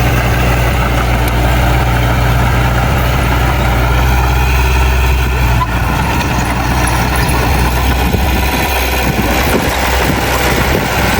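Heavy diesel engine of earth-moving machinery running steadily, with a deep drone that thins out for a couple of seconds near the end.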